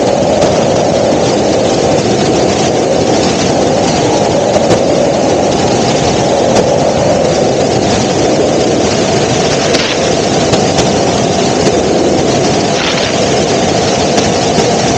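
Helicopter in flight: loud, steady engine and rotor noise heard from inside the cabin.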